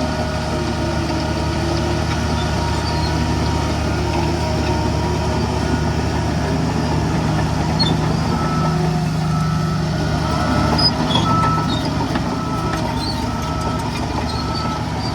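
Heavy diesel engine of earthmoving machinery running steadily under load. About eight seconds in, a reversing alarm starts beeping at an even pace, roughly once a second.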